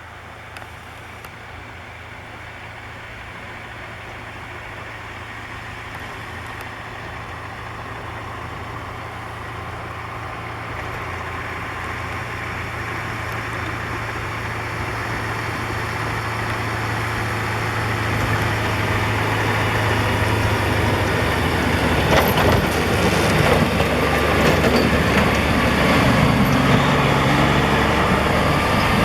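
Six-wheel-drive Western Star plow truck's diesel engine running as the truck draws closer, growing steadily louder. Over the last several seconds a rougher rushing noise joins in and the engine note shifts up and down in steps.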